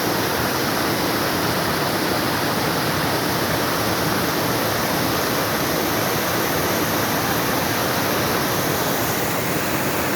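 Waterfall rushing close by, a steady unbroken roar of falling water.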